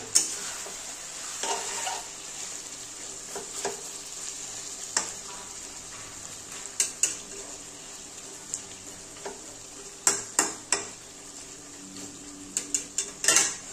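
Chicken kosha sizzling steadily as it fries down in a metal kadai, with a metal spatula scraping and knocking against the pan now and then, several strokes in quick succession about ten seconds in and again near the end.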